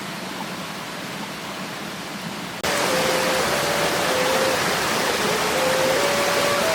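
Steady rushing water noise that cuts abruptly to a louder, brighter rush about two and a half seconds in. From there a thin tone steps slowly between held pitches over it.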